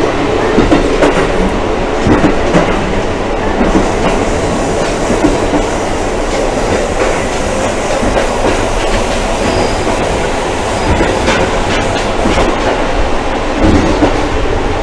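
KiHa 185 series diesel railcar running on the line, heard from inside the car: a steady rumble of wheels and diesel engine, with clicks of the wheels passing over rail joints, bunched near the start and again near the end.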